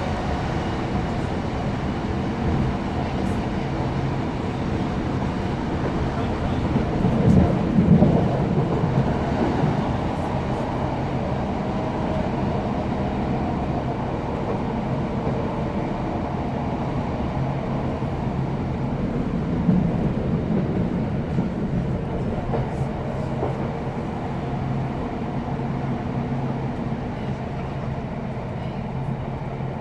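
Class 156 Super Sprinter diesel multiple unit running, heard from inside the carriage: a steady diesel engine drone over wheel and rail noise, swelling louder about seven seconds in and again about twenty seconds in.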